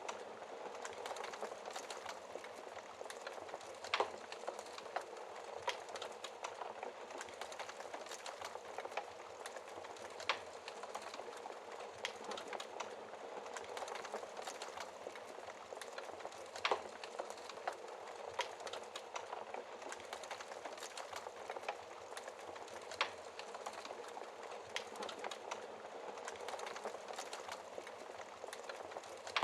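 Wood fire crackling in a fireplace: a steady hiss with many small crackles and a few louder single pops several seconds apart.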